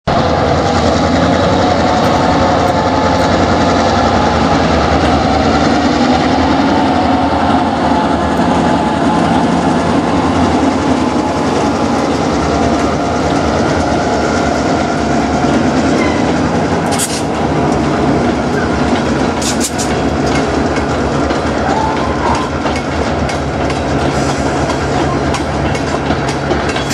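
Slow freight train with EMD diesel road-switcher locomotives (GP9RM and GP38-2) passing close by: a steady diesel engine drone with the cars' wheels rolling over the rail joints. A few sharp metallic clanks come about two-thirds of the way through.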